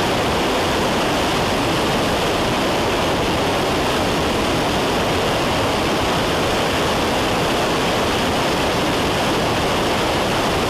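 Steady in-flight cabin noise of a Cessna 172: engine, propeller and airflow blending into an even rush with no distinct tones or changes.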